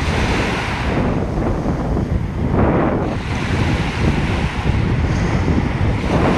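Ocean surf washing on a beach, with wind buffeting the microphone in a steady low rumble.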